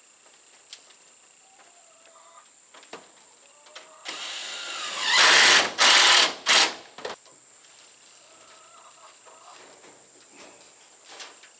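Cordless drill driving a screw: a whir that rises about four seconds in, then three short pulses of the motor as the screw is seated.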